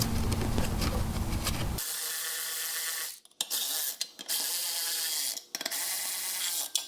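Fasco shaded-pole electric blower motor humming steadily, then cutting off abruptly about two seconds in. After it, a steady hiss with several short, sudden dropouts.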